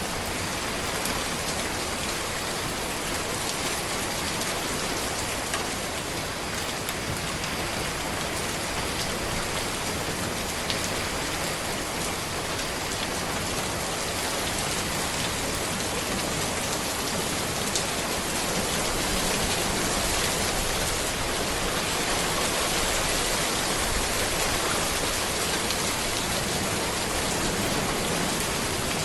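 Steady rain falling on a road, an even hiss with scattered individual drop ticks, swelling slightly louder about two-thirds of the way through.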